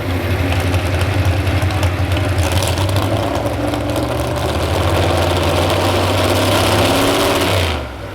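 Modified 4x4 pulling truck engine running hard under load, building toward the end, then letting off about seven and a half seconds in, its pitch falling away.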